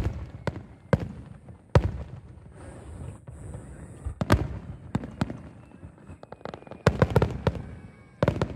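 Aerial fireworks shells bursting in sharp bangs, one every second or so at first. About seven seconds in, a rapid cluster of bangs follows.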